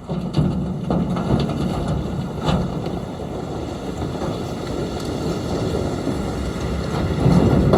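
Heavy diesel earthmoving machinery running with a steady low engine sound, a few short knocks, and wind on the microphone.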